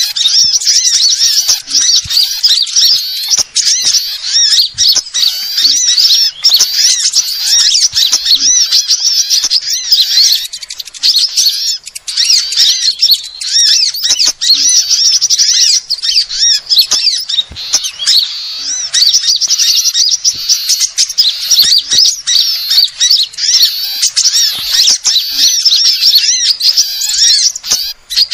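A dense, continuous chorus of small birds twittering and chirping rapidly at a high pitch, with many calls overlapping. It is a bird-lure recording used to draw in small birds such as sunbirds.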